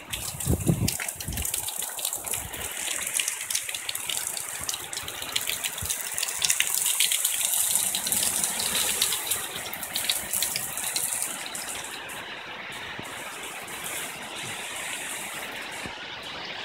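Heavy rain pouring down: a dense, steady rush of falling water full of small splashes and patters. It eases somewhat about two-thirds of the way through.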